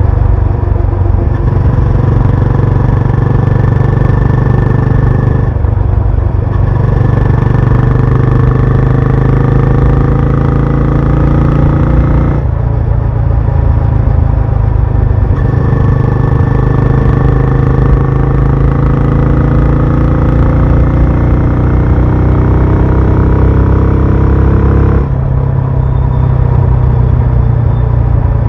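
Benelli Imperiale 400's single-cylinder engine and exhaust running under way. The note climbs slowly and drops back three times as the throttle eases or a gear changes.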